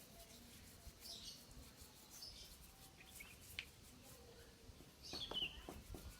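Faint bird chirps: a few short high calls over a quiet background, the last, near the end, falling in pitch.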